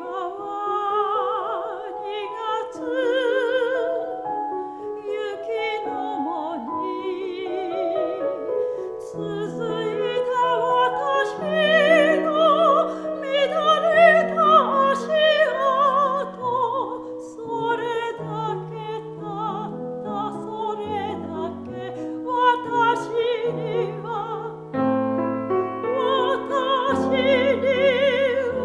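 Soprano voice singing a Japanese art song with wide vibrato over piano accompaniment.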